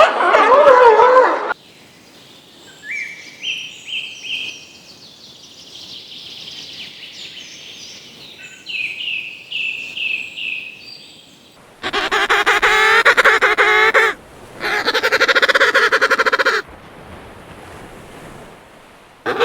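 Farm fowl calling. A loud call cuts off about a second and a half in, then comes a run of thin, high, repeated chirps, and after that two long, loud, harsh calls of about two seconds each.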